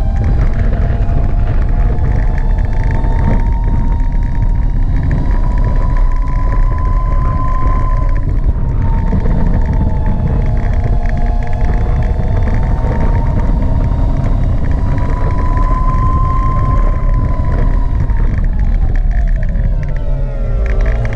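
Gogoro 2 electric scooter's motor whining under a heavy wind and road rumble, the whine slowly rising and falling in pitch with speed and dropping sharply near the end as the scooter slows.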